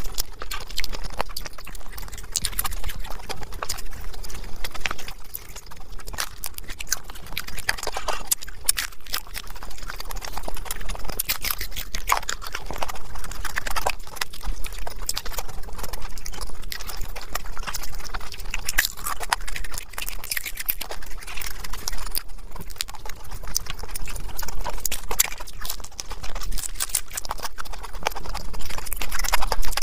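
Close-miked crunching and chewing of crisp deep-fried samosa pastry: an irregular run of sharp crackles and clicks.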